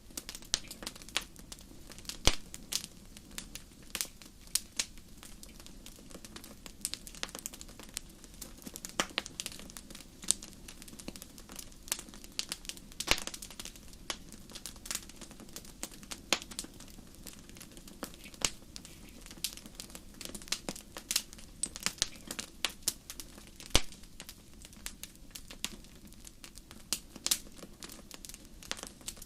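Wood fire burning in a fireplace, crackling with many irregular sharp pops over a low steady rumble of the flames.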